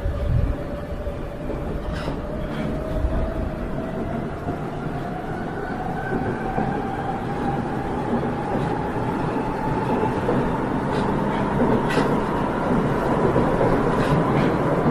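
Subway train running and picking up speed: a motor whine rising slowly in pitch over the rumble of the wheels, with a few sharp clicks and the noise growing louder toward the end.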